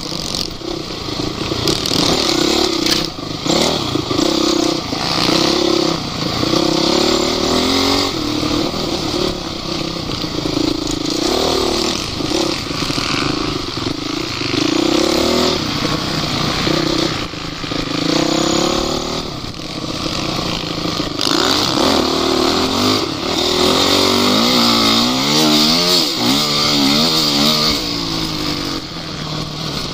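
Off-road motorcycle engine running hard, its pitch rising and falling over and over as the throttle opens and closes.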